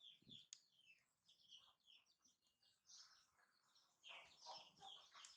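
Faint birds chirping: many short, high chirps that dip in pitch, coming more thickly near the end.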